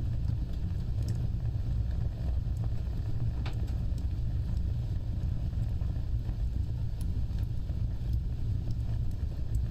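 Wood fire burning, with a steady low rumble of flames and scattered faint crackles, one sharper pop about three and a half seconds in.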